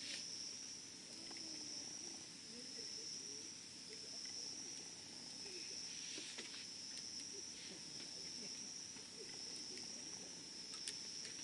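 Wood fire burning with sparse crackles and pops, the sharpest near the end. Under it runs a steady high insect trill, like crickets chirring.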